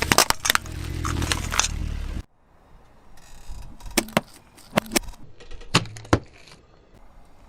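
A car engine running with sharp crackles and cracks as objects are crushed under a tyre, cut off abruptly about two seconds in. After that come a few separate sharp clicks and knocks.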